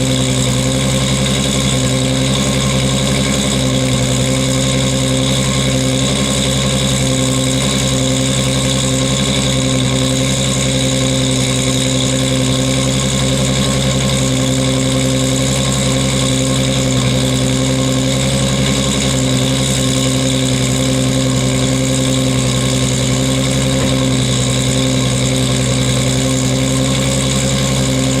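Toyota Supra Turbo's 2JZ-GTE straight-six idling steadily through an HKS titanium racing exhaust with its silencer fitted, warming up after a cold start. The note holds constant with no revs.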